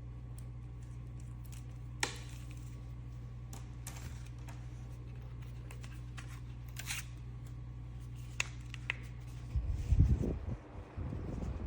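Small handheld folding fan running with a steady low hum, with a few light clicks of handling. From about nine and a half seconds in, a loud, uneven low rumble of buffeting on the microphone takes over.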